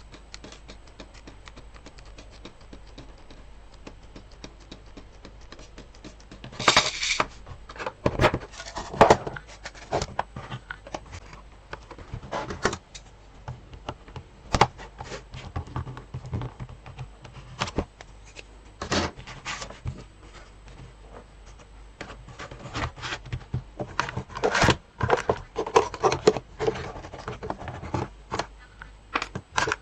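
Small sewing supplies being handled and sorted in a sewing box: scattered clicks and taps with rubbing and scraping between them. It starts about six seconds in and gets busier near the end.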